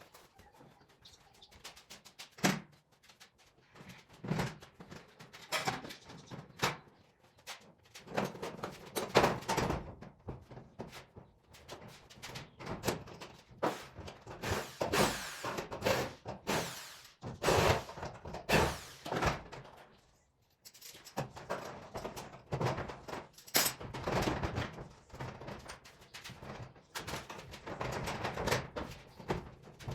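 Irregular series of knocks, thuds and clatter, with a short lull about two-thirds of the way through.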